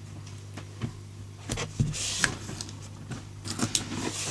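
Washi tape rolls and their packaging being handled: scattered light clicks and taps, with a brief rustle about two seconds in, over a steady low hum.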